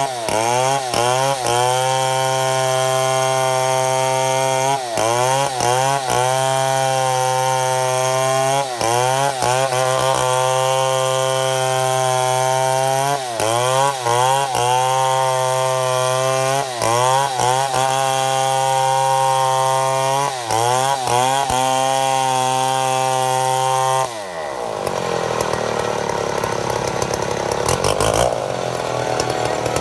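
Chainsaw at full throttle ripping lengthwise through a mahogany log for milling slabs, its engine note steady under load with brief dips in pitch every few seconds. About 24 s in the engine drops off to a lower, rougher running, then revs up again at the very end.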